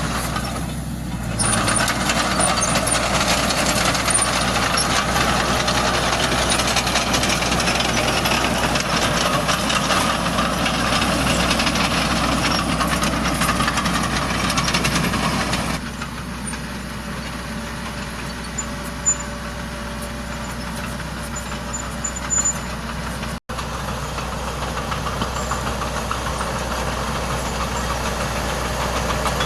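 Diesel earthmoving machinery, a bulldozer and dump trucks, running steadily with the engines labouring. Partway through the sound drops abruptly to a quieter, duller engine note, with a couple of short knocks in that quieter part.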